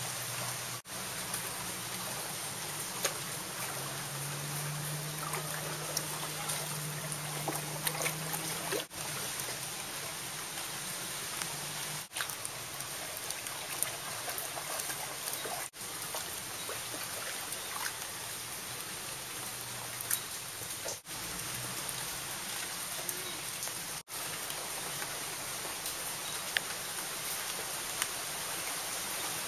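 Steady rain falling on shallow standing floodwater, with scattered small drips. A low hum sits under it for a few seconds, and the sound cuts out for an instant several times.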